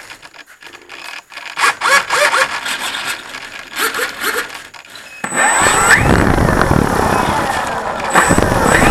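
Cessna 170's six-cylinder engine being started: quieter clicking and rattling while it turns over, then it catches suddenly about five seconds in and runs loudly, its pitch rising and falling as it is throttled.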